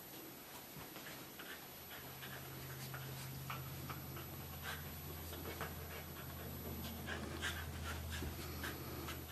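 Dogs playing, with panting and many short scuffling noises. A low steady hum comes in about two seconds in.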